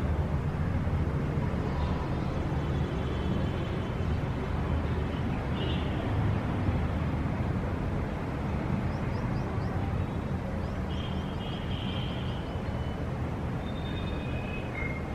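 Steady low rumble of city traffic, with small birds chirping in short bursts over it several times.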